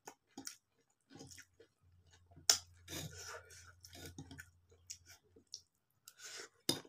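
Wet chewing and lip smacking of a mouthful of noodles, with many short clicks. A sharper click of metal cutlery comes near the end, as a spoonful goes into the mouth.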